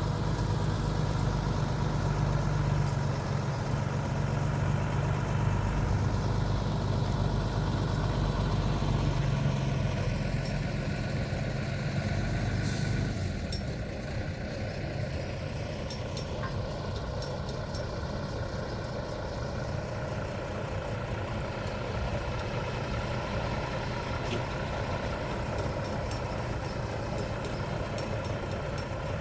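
Heavy lorry engine running steadily while the ride's centre is manoeuvred into position. About halfway through there is a short hiss, after which the low engine note drops and stays quieter.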